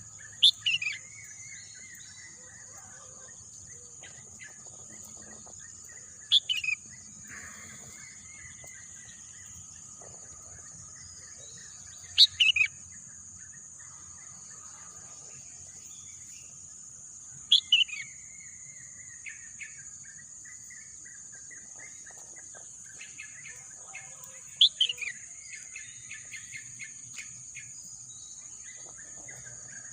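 A bird gives a loud, short call that falls sharply in pitch, five times at roughly six-second intervals, with softer bird chirps between. Under it runs a steady, high-pitched insect drone.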